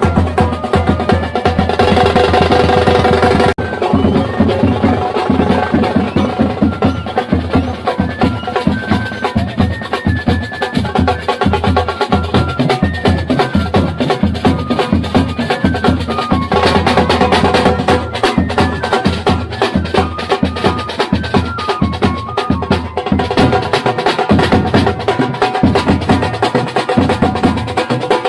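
A band playing: fast, dense drumming with a melody of held, stepping notes on top. The sound changes abruptly about three and a half seconds in and again around sixteen seconds.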